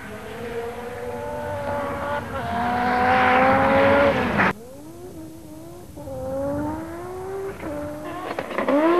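Group B rally car engine accelerating hard, its pitch climbing and dropping back at gear changes; the sound cuts off suddenly about four and a half seconds in, then a second run of climbing revs with another gear change follows.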